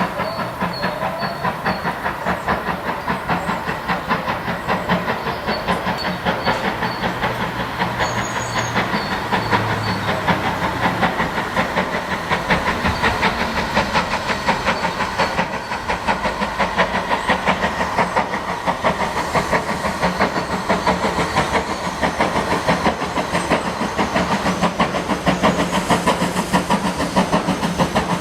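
GWR 5600 class 0-6-2T tank engine No. 6695 steaming with a quick, even rhythm of exhaust beats and steam hiss, growing a little louder toward the end.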